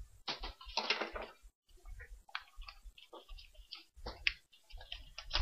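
Irregular light clicks and brief rustles of an exhaust tip and its packaging being handled, with a longer rustle about a second in.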